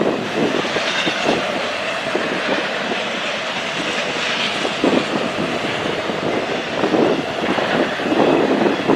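Railroad cars rolling past, their wheels clattering over the rail joints in an uneven run of knocks over a steady rumble, with a louder knock about five seconds in.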